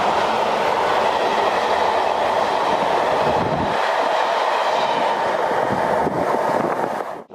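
Passenger coaches of a steam-hauled train passing close at speed: a loud, steady rush and rumble of wheels on rail. The low rumble thins about halfway through, and the sound fades and cuts off abruptly near the end.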